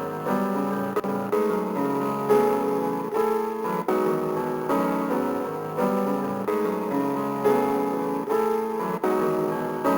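Sampler music built on a piano or electric-piano sample, chords struck in a repeating pattern, played from a Roland SP-404.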